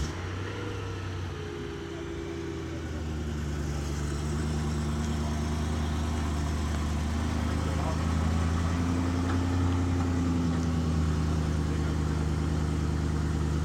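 BMW E92 M3's 4.0-litre S65 V8 idling just after a cold start, growing slightly louder over the first few seconds and then holding steady.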